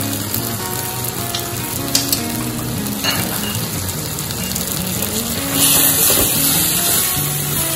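Onion-tomato masala frying in sesame oil in a clay pot, sizzling steadily and stirred with a wooden spatula. A couple of light spatula knocks come a few seconds in, and the sizzle grows louder about two-thirds of the way through as the spatula works the ginger-garlic paste and spices into the hot mixture.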